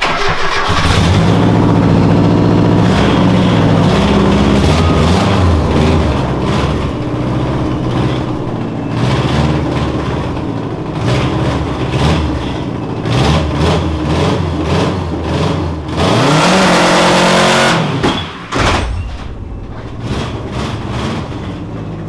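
Car engine revving hard in a garage during an attempted burnout, with a louder rush of high revs and tyre noise for about two seconds near the end that cuts off sharply, followed by a few knocks. The front brakes cannot hold the car, so it lurches forward into chairs.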